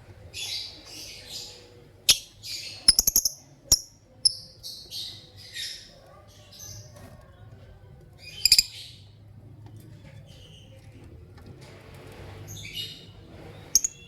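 Lovebirds chirping: a string of short, high, squawky calls, thickest in the first half, with one loud call past the middle and a few more near the end. A quick run of sharp clicks or taps, the loudest sounds, comes between about two and four seconds in.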